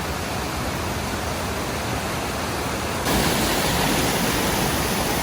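Boyana Waterfall: loud, steady rushing of falling water, even and without pauses. It gets louder about three seconds in.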